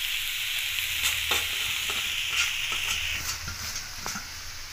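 Dry beans-and-potato sabzi sizzling on low heat in a steel kadhai, with a few light clicks of the steel ladle against the pan. The sizzle fades about three seconds in.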